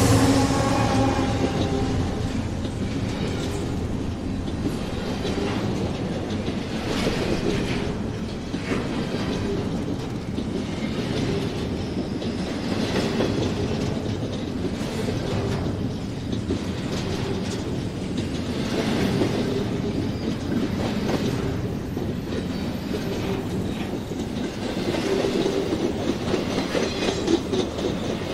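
BNSF diesel freight train passing close by: the hum of the lead locomotives fades in the first second or two, then the container cars roll past with a steady rumble and wheel clatter over the rail joints.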